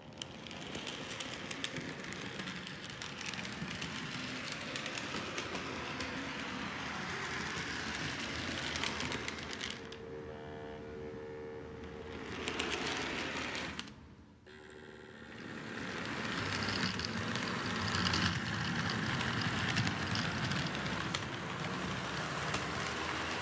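Model train locomotives running on a layout: a steady electric motor whir with fine clicking of wheels on the rails. The sound drops out briefly twice, where one clip cuts to the next, and a short humming tone comes in partway through.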